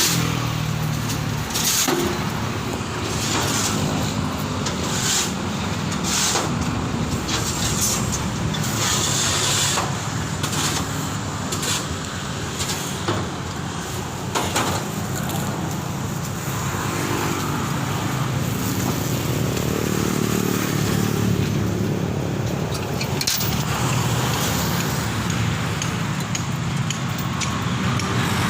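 Traffic passing steadily on a busy city road, cars and motorbikes, with scattered short knocks and scrapes.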